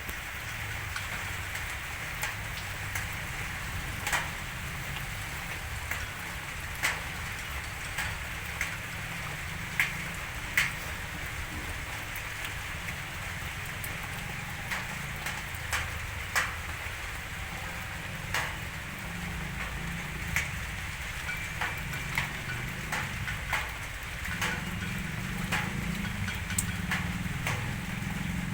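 Steady rain falling, with heavy drops tapping sharply on a nearby surface every second or so. A low rumble underneath grows louder near the end.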